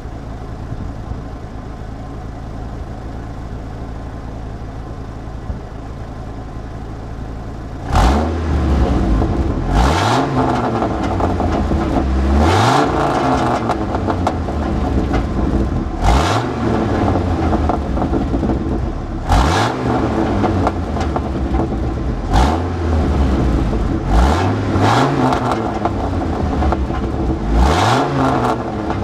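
1996 Dodge truck's 8.0-litre V10 idling, then from about eight seconds in revved again and again in short blips that rise and fall every two or three seconds. It sounds raspy and blowing because of an exhaust leak.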